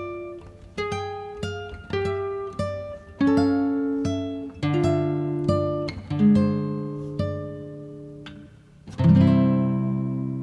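Background music on a plucked acoustic guitar: slow single notes and chords, each struck sharply and left to ring out and fade, with a fuller chord near the end.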